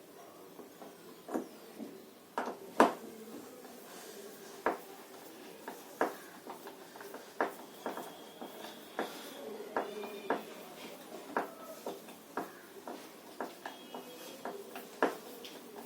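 Irregular knocks and clunks of a top-load washing machine's drum and spring suspension rods being handled as the drum is lifted out, with a few short ringing tones about halfway through.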